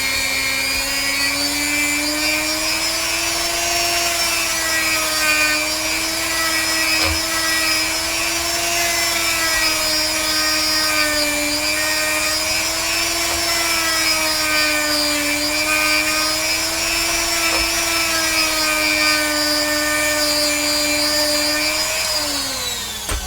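Handheld rotary tool spinning a steel wire-bristle brush against a pewter cast, a steady high motor whine with a rough brushing hiss, its pitch wavering slightly as it is pressed on. Near the end it is switched off and winds down, the pitch falling away.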